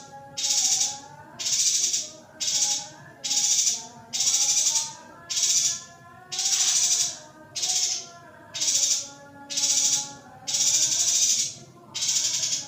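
Female yuhina giving harsh, buzzy calls over and over, about one a second, some a little drawn out, with fainter wavering whistled notes underneath.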